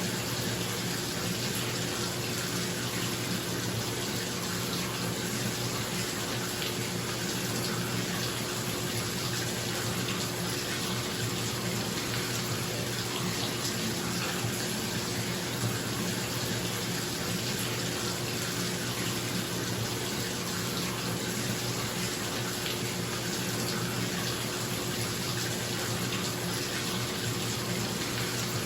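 Bathtub tap running into the tub, a steady rush of falling water, with a bathroom exhaust fan's steady low hum underneath.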